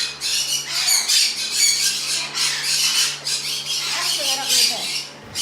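Pet parrots squawking and screeching over and over, one harsh call after another.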